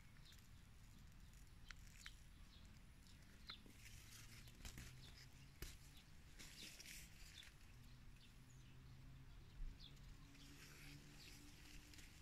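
Quiet outdoor ambience with a few faint bird chirps scattered through it and occasional soft rustling hiss. A faint steady low hum comes in about a third of the way through.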